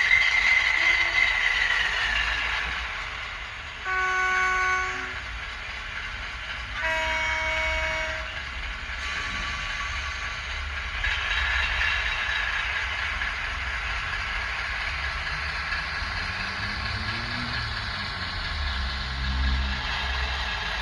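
Simulated Class 60 diesel locomotive sound played by a Zimo MX659 decoder through an N gauge model's small speaker: the two-tone horn sounds twice, first a higher note and then a lower one, then the engine runs and its pitch rises in steps near the end as it powers up.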